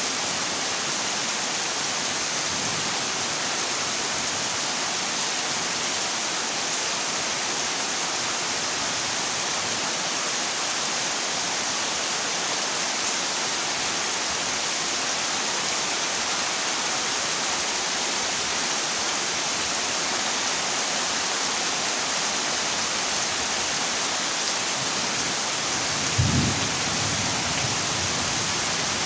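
Heavy rain falling steadily on a corrugated zinc roof, a constant hiss, with a brief low thunderclap near the end.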